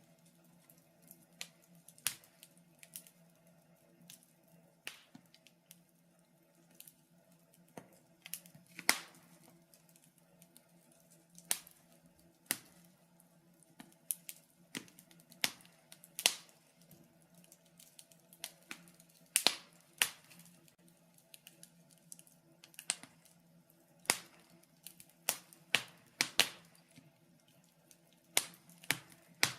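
Wood fire crackling in a fireplace: irregular sharp pops and snaps, some loud and many faint, over a faint steady low hum.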